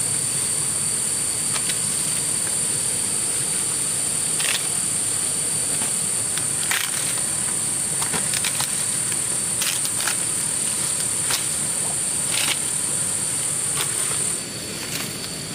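Insects in an outdoor chorus: a steady, high-pitched buzz that stops suddenly near the end, with scattered sharp clicks over it.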